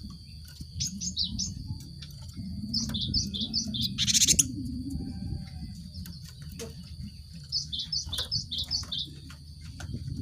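Cinereous tit (gelatik batu) calling in three quick bouts of repeated high chirps, with one loud harsh rattling burst about four seconds in, over a steady low rumble.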